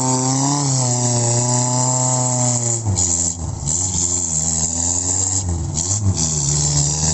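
Off-road vehicle engine working hard under load, held at high revs for about three seconds, then dropping and revving up and down again and again as the vehicle is manoeuvred on the trail.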